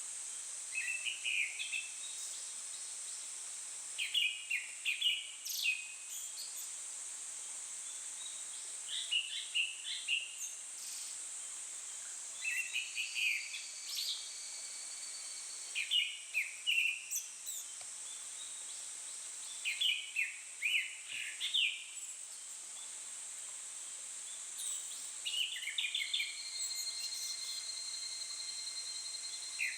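Japanese thrush singing: short, varied whistled phrases repeated every four or five seconds, over a steady high-pitched hiss. A thin, level whistle is held for a couple of seconds twice, once in the middle and once near the end.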